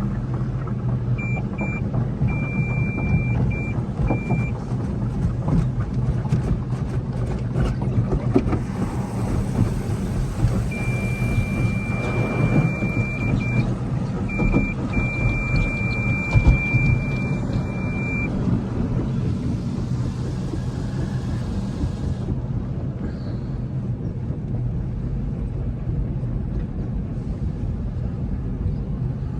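Automatic car wash heard from inside the car: a steady low hum of machinery and engine, with a high electronic beeping tone in two broken stretches. A rushing hiss starts about eight seconds in and cuts off suddenly around twenty-two seconds.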